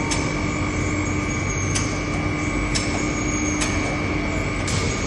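Pneumatic degating hammer striking castings over a steady industrial machine drone: five sharp knocks at uneven intervals, about one a second.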